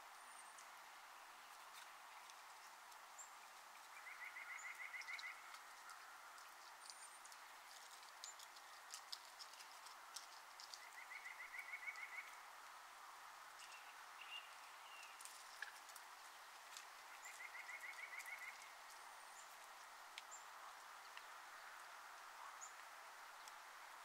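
A small songbird repeating a short rapid trill three times, several seconds apart, among scattered thin high bird calls and a few clicks over steady outdoor background noise.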